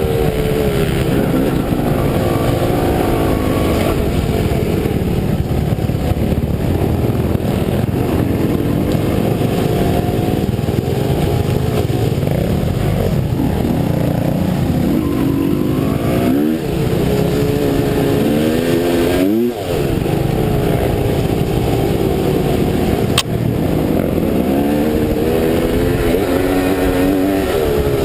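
Dirt bike engine being ridden hard, revving up and falling back again and again as the throttle opens and closes. About two thirds of the way in, it drops briefly off the throttle and then revs sharply up again. A single sharp click comes a few seconds later.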